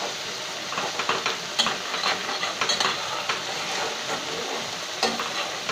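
Egg and onion masala sizzling in a kadhai while a metal spatula stirs through it, with scattered light scrapes and clicks against the pan. The last of the watery liquid is being cooked off.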